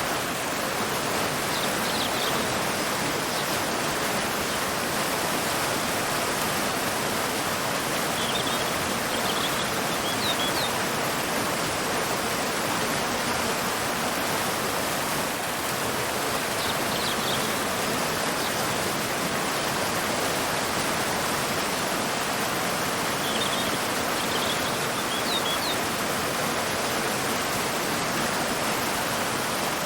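Waterfall and river rushing, a steady, even roar of falling and flowing water. Faint short bird chirps come in small groups a few times over it.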